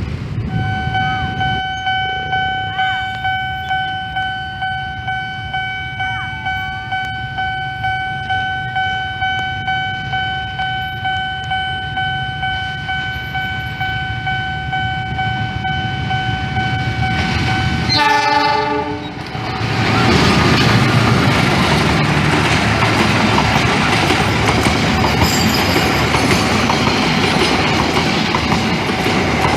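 A steady high tone with a pulsing beat sounds for about 18 seconds, then a short horn blast, and a train hauled by two diesel locomotives passes close by, loud, with wheels clacking over the rail joints.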